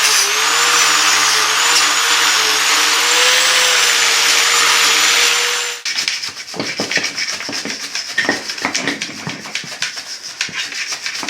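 A power tool runs steadily for about six seconds, its motor pitch wavering slightly under load, then stops abruptly. It is followed by rapid, irregular scraping and scrubbing strokes of hand cleaning on metal: cleaning rust and grime off a shock absorber.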